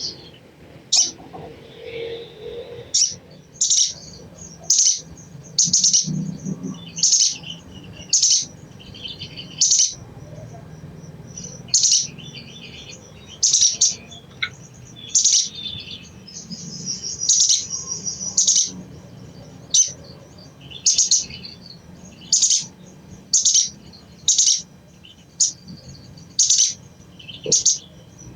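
Little spiderhunter (sogok ontong) giving its chattering call: short, sharp, high notes repeated about once a second, broken by a few longer chattering runs.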